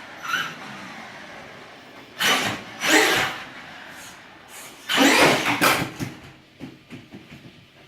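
Monster truck's motor whirring in short bursts: about two seconds in, again just after three seconds, and a longer one around five seconds, with smaller bursts near the end.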